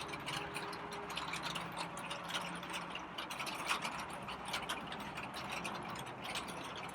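Rain falling, heard as a dense patter of separate drop ticks over a soft hiss. A faint low hum runs through the first few seconds.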